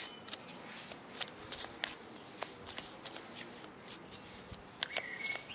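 Tarot cards shuffled by hand: irregular soft flicks and snaps of the cards.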